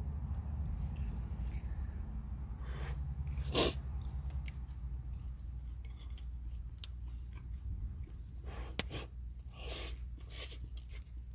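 A person chewing and biting food at close range, with scattered small clicks, over a steady low rumble.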